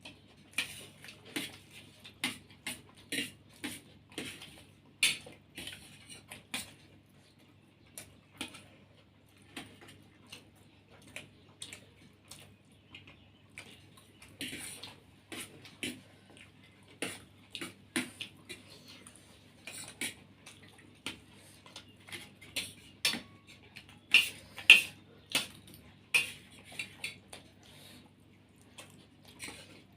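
Spoons clinking and scraping on plates in quick, irregular clicks while people eat, loudest in a flurry near the end.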